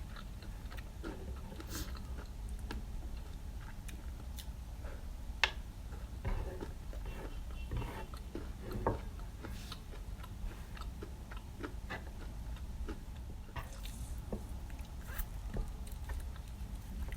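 Close-up chewing and eating sounds, with many small scattered clicks and one sharper click about five and a half seconds in, over a steady low hum.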